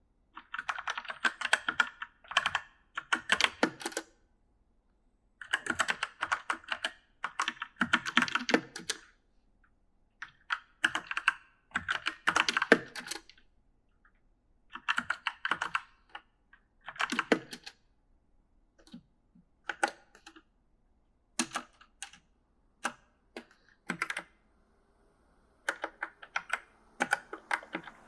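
Typing on an E-Element mechanical gaming keyboard: runs of rapid key clicks lasting a second or two, separated by short pauses, with sparser single keystrokes toward the end.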